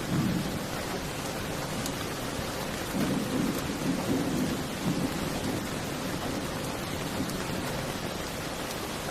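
Steady rain with low rumbles of thunder, briefly at the start and again for a couple of seconds in the middle.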